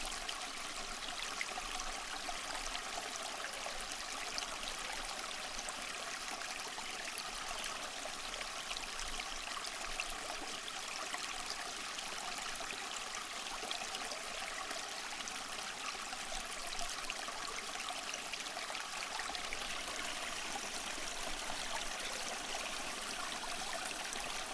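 Water trickling steadily down a small tabletop waterfall fountain, a light, even splashing with no change.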